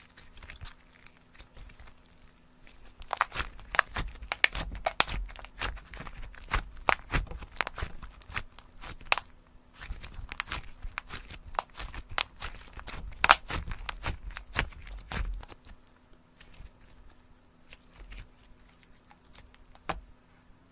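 Slime being squeezed and worked by hand, giving a dense run of sharp crackling clicks and pops that stops about three-quarters of the way through, with one last pop near the end.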